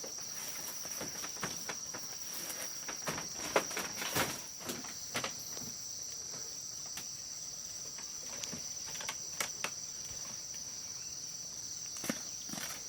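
A steady high-pitched chorus of insects, with scattered light clicks and knocks now and then, a cluster of them a few seconds in.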